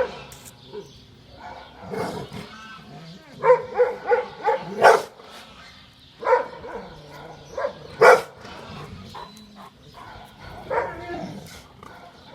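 Kangal shepherd dogs barking in short bursts of repeated barks: a quick run of about five some three and a half seconds in, then single and paired barks at intervals.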